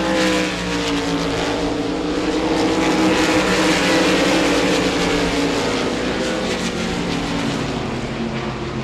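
A field of RaceSaver sprint cars racing on a dirt oval, their 305 small-block V8 engines at high revs. Several engines blend into one loud, steady drone whose pitch drifts gently up and down.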